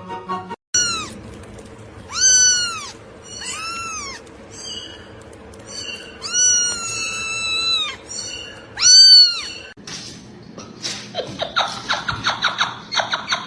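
A cat meowing repeatedly, with about seven rising-and-falling meows and one long drawn-out meow in the middle. After a cut about ten seconds in comes a rapid run of short chirps or clicks, several a second.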